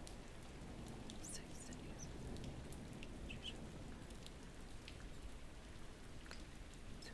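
Steady rain from a thunderstorm ambience with a soft low rumble, and scattered faint clicks and small ticks over it.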